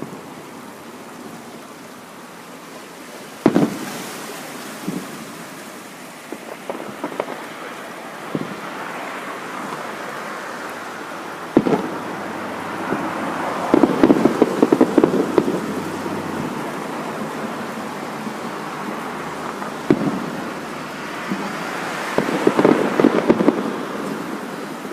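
Fireworks display: aerial shells bursting with sharp booms about every eight seconds, with long runs of dense crackling pops in between, the heaviest near the middle and near the end.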